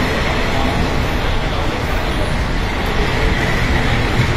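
Express passenger train's coaches rolling along the platform: a loud, steady rumble of wheels on rail and running gear.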